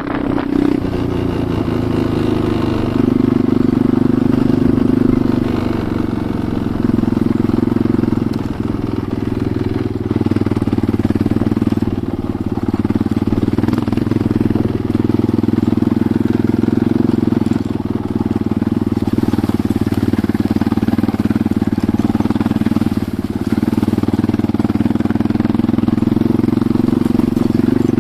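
Enduro motorcycle engine running while riding, its level dipping and swelling every few seconds as the throttle is eased and opened.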